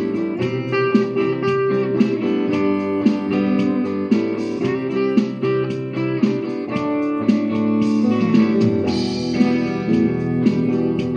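Guitar music: plucked notes in a steady rhythm, with some notes sliding in pitch.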